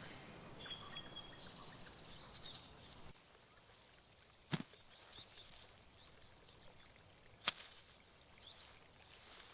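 Faint outdoor ambience with a short, high steady note in the first second and a half, then two sharp clicks about three seconds apart.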